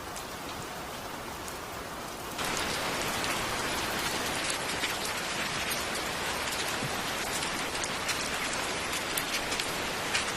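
Steady rain falling, with individual drops ticking on a surface; about two and a half seconds in it suddenly gets louder and brighter.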